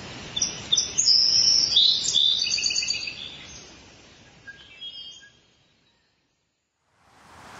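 Birds chirping and trilling over a faint outdoor hiss, fading out about five seconds in.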